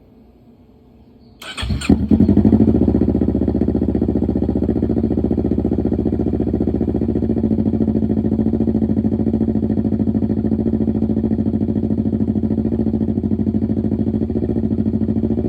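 Kawasaki Z650's parallel-twin engine, fitted with an SC Project full exhaust, cranked on the electric starter about a second and a half in, catching almost at once and settling into a steady idle.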